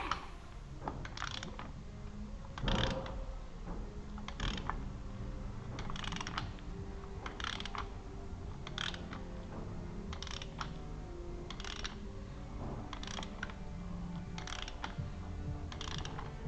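A hand ratchet working on the engine: a series of short, evenly spaced ratcheting strokes, about one every second and a half.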